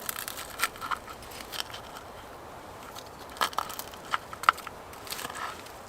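Crispy pan-fried potato rösti being bitten and chewed: several bursts of crunching separated by short pauses.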